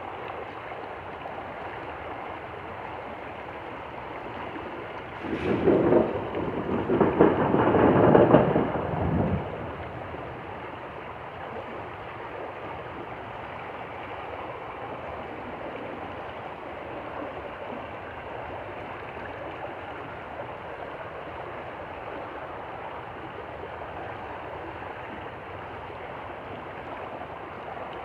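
Stream flowing steadily. About five seconds in, a loud rough noise, mostly low and mid, breaks in and lasts about four seconds before the flowing water is alone again.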